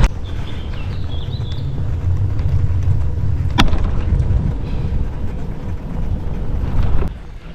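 Wind buffeting the microphone as a rumble while riding a bicycle, with one sharp click about three and a half seconds in; the rumble drops away about seven seconds in.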